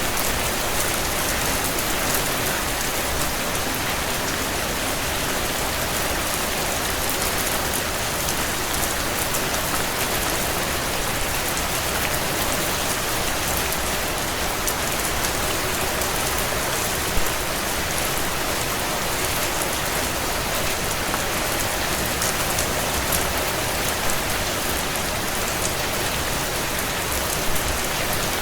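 Steady heavy rain, with a wood fire crackling underneath and a few sharper pops.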